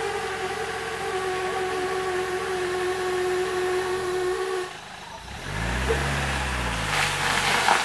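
Land Rover Defender's engine pulling steadily under load on a steep, muddy off-road climb. It falls away about four and a half seconds in, then revs up and back down once near the end, with a burst of rushing noise.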